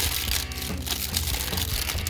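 Plastic wrapping crinkling and crackling in irregular bursts as it is cut and pulled open by hand, over background music.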